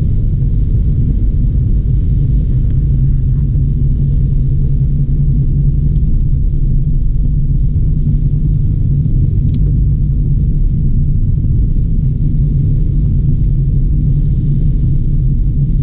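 Steady, loud low rumble of a car in motion: road and engine noise.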